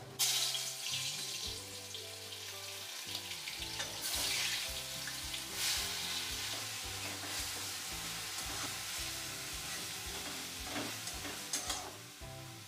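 Onion paste sizzling as it fries in hot oil in a metal kadai, with a spatula stirring it and scraping the pan now and then.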